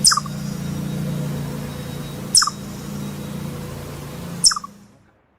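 Chipmunk giving sharp, high chirp calls, three of them about two seconds apart, over a steady low hum. The sound fades out near the end.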